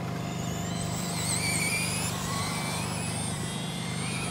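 Electric motors of several radio-controlled 2wd short-course trucks whining as they race, the pitch of each rising and falling with throttle, over a steady low hum.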